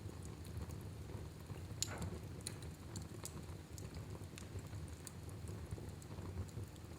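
Fireplace fire crackling: scattered sharp pops and snaps over a steady low rumble, the loudest pop about two seconds in.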